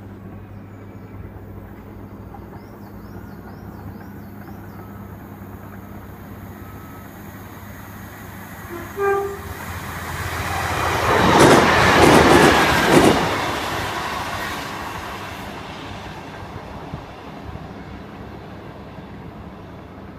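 Class 155 Sprinter diesel-hydraulic multiple unit passing close by. A short horn toot sounds about nine seconds in, then the train builds to a loud pass with a clickety-clack of wheels over the rail joints, and fades away. A low steady hum lies underneath.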